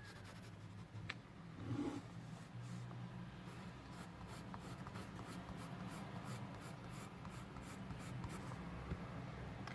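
Graphite pencil shading on paper: faint, repeated short back-and-forth strokes, about three a second, with a single tap about a second in.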